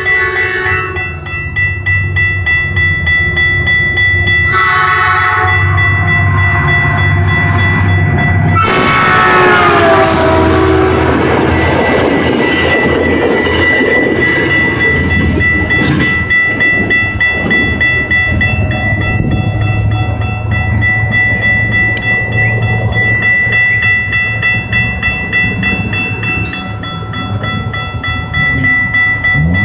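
Metrolink commuter train passing a grade crossing: its horn sounds briefly about four seconds in, then again louder about nine seconds in with its pitch dropping as it goes by. After that come the rumble and clatter of the bilevel passenger cars on the rails. A crossing warning bell rings steadily throughout as a high tone.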